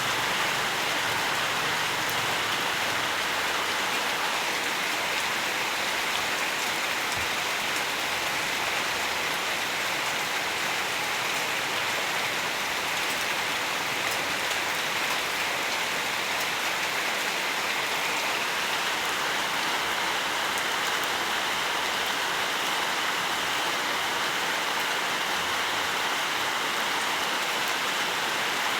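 Steady rainfall, a dense even patter of raindrops on surfaces.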